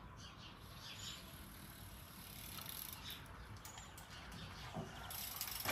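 Faint outdoor background with scattered distant bird chirps.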